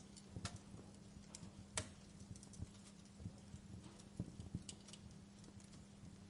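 Wood fire crackling in a fireplace: scattered, irregular sharp pops and snaps over a faint low hiss, the loudest snap a little under two seconds in. A faint steady low hum runs underneath.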